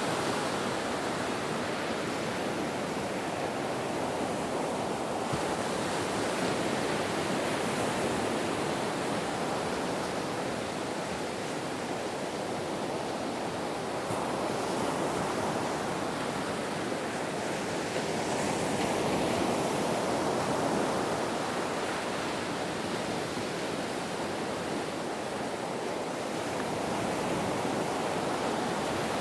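Ocean waves breaking and washing on the shore: a continuous rush of surf that swells and eases slowly every several seconds.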